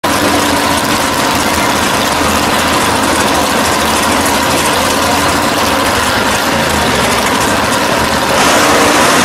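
Engines of a 1965 Pontiac GTO and a 1969 Chevelle drag car idling steadily in the staging lanes, getting louder a little past eight seconds in.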